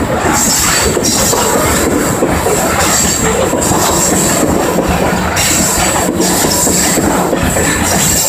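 Freight train of open-top gravel hopper cars rolling past: a steady rumble of steel wheels on rail with clacking over the rail joints and a high wheel squeal that comes and goes.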